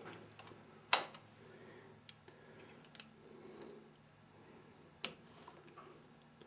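Two sharp clicks, one about a second in and another about four seconds later, with a few faint ticks between over a quiet background.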